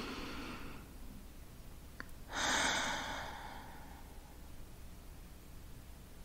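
A person breathing out slowly and audibly close to the microphone, one long exhale about two seconds in that fades away, with a small click just before it.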